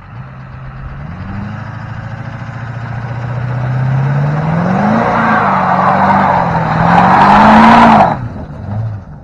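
Duramax diesel pickup attempting a burnout: the engine revs up and holds high while the tyres spin, with a rush of tyre noise that builds to its loudest and then cuts off suddenly about a second before the end as the throttle is released.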